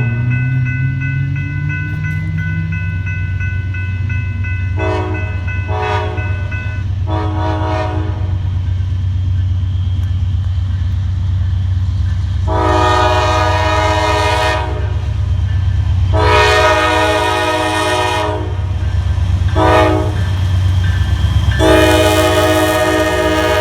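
Diesel freight locomotives running with a steady low drone, the engine pitch rising over the first few seconds as they throttle up. The locomotive's multi-chime air horn gives three quick short blasts, then long, long, short, long: the standard grade-crossing signal.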